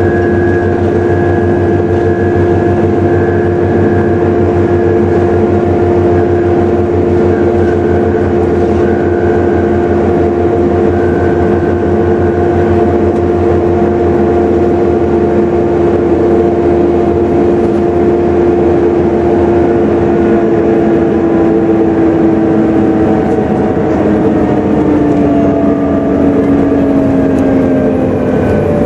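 Volvo B7TL bus running with the loud, steady vacuum-cleaner-like whine its enthusiasts call a 'hoover', over the throb of its engine. The whine falls in pitch over the last several seconds.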